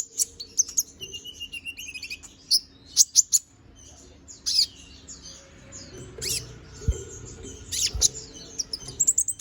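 Konin (kolibri ninja) songbird singing gacor, in rapid clusters of sharp, high-pitched chirps and twitters. A steady low hum runs underneath, with two dull thumps a little after the middle.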